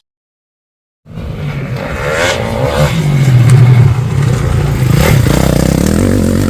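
Motocross motorcycle engine running and revving, its pitch rising and falling, coming in suddenly after about a second of silence.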